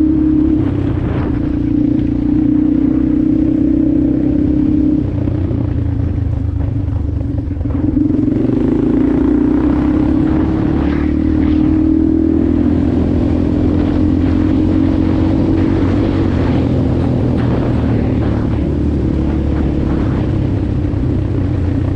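Motorcycle engine running under way, its pitch dropping about a quarter of the way in and climbing again soon after as the throttle changes.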